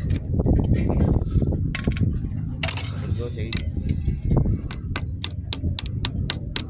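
Light metallic clicks and clinks, like small metal parts or tools knocking together, coming faster in the second half, over a steady low rumble.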